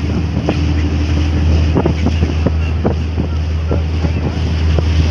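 Steady low engine drone of a passenger catamaran ferry under way, with wind rushing over the microphone.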